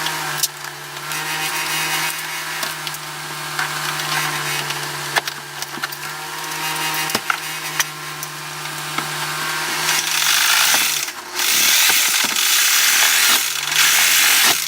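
Cordless reciprocating saw running with a steady motor whine while cutting. About ten seconds in it turns louder and harsher in three spurts, then stops abruptly.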